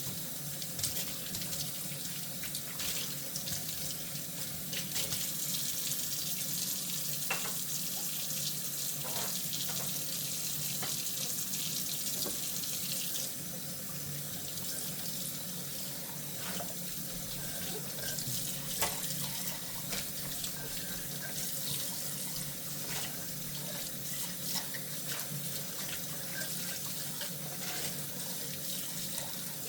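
Kitchen tap running steadily into a sink while dishes are washed by hand, with frequent small clinks and knocks of dishes scattered throughout.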